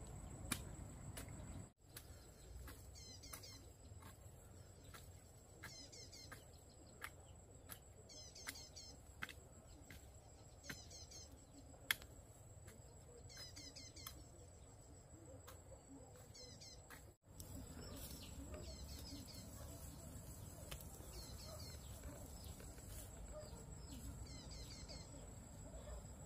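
Faint bird calls, a short wavering phrase repeated every two to three seconds, over a steady high-pitched whine and scattered sharp clicks, one louder than the rest about midway.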